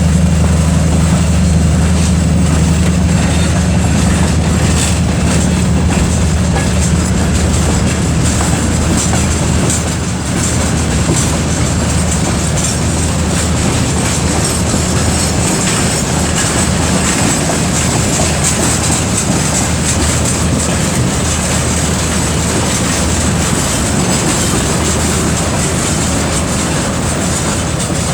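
2TE10UT diesel locomotive's 10D100 two-stroke opposed-piston diesel engine running under heavy load as it hauls a freight train uphill, with a steady high turbocharger whistle over the low engine drone. Wheels clack over the rail joints.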